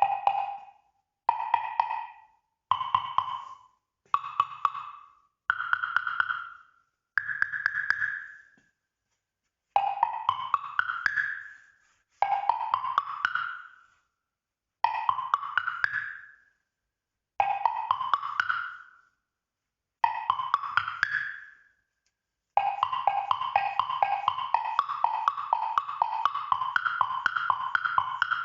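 A set of Ron Vaughn pitched wood blocks struck in quick repeated strokes. The blocks are played one at a time, rising in pitch block by block across six blocks. Then come five fast upward runs across the set, and about 22 seconds in a continuous fast pattern moving among the blocks.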